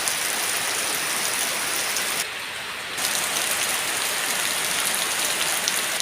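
Heavy rain falling steadily, a dense even hiss. About two seconds in it briefly goes duller and quieter for under a second, then resumes.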